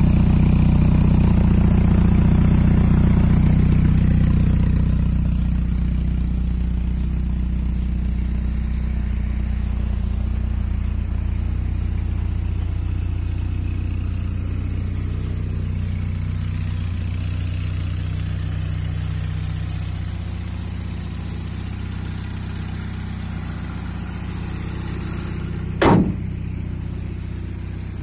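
1983 Porsche 924's inline-four engine idling steadily, heard from its exhaust. It is loudest for the first few seconds, then somewhat quieter. A single sharp click comes near the end.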